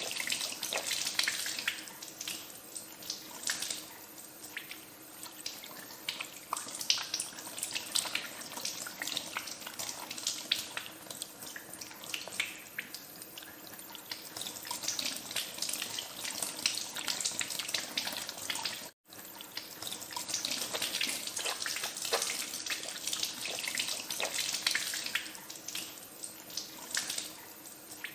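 Water running from a tap into a sink while hands are washed under it, with irregular splashing. The sound cuts out for a split second about two-thirds of the way through, then carries on.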